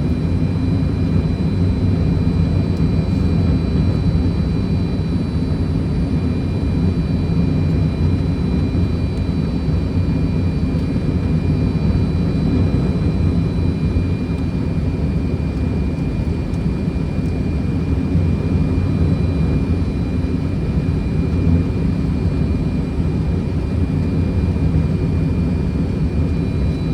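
Fokker 100 cockpit noise in flight on approach: a steady rush of airflow and low engine hum, with two faint, steady high tones running under it.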